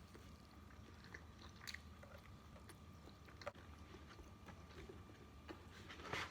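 Faint biting and chewing of fried chicken close to the microphone, a string of small scattered clicks and smacks.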